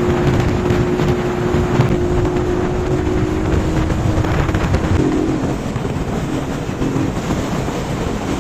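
Bajaj Pulsar NS200 motorcycle riding at steady speed, its engine note running under heavy wind noise on the microphone; the engine pitch shifts slightly a little past halfway.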